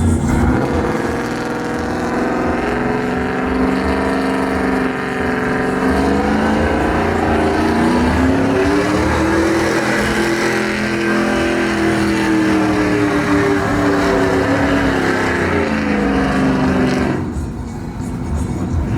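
A truck engine held at high revs in a burnout, its pitch wavering up and down for about seventeen seconds before it drops off suddenly near the end.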